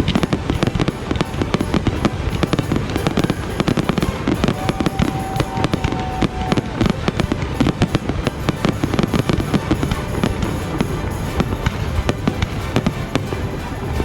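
Fireworks display with a dense, continuous barrage of rapid bangs and crackling, over music.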